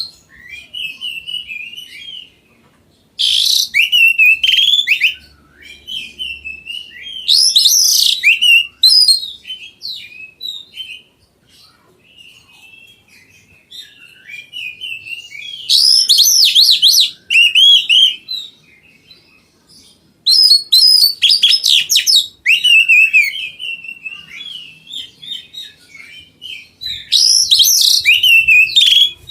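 Oriental magpie-robin singing in loud bursts of rapid, varied whistled phrases, with softer warbling between the bursts.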